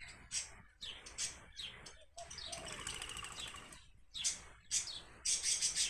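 Birds chirping in short, high, repeated calls, with a stretch of wing flapping in the middle and a quick run of sharper chirps near the end.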